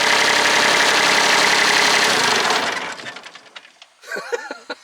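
MadVac 101D litter vacuum with its Kubota D1105 diesel running under load, a loud full-range rush of engine and vacuum-fan noise. About two and a half seconds in it is shut off and the noise dies away over about a second.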